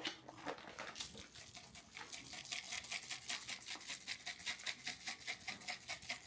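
Grated parmesan being shaken from a shaker container onto a pizza: a fast, even run of short rattling ticks, about five or six a second, settling into a steady rhythm about two seconds in.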